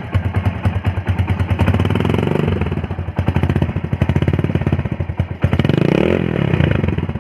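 Yamaha RX100's two-stroke single-cylinder engine running through a Splendor exhaust silencer. It is revved up and let back down twice: once about two seconds in and again near the end.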